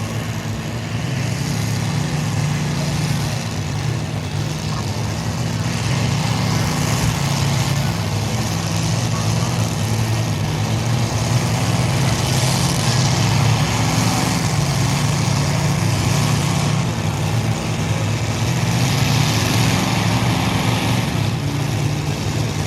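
Modified pulling tractor's engine running steadily at low speed, a deep even drone, with a few swells in level as it is moved up to the starting line.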